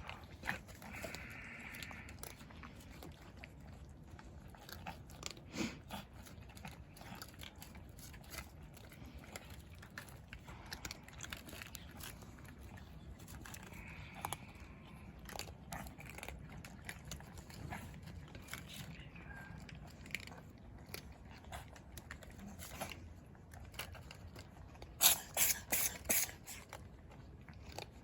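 Cats chewing and crunching food, a steady run of small crunches, with a quick cluster of louder clicks near the end.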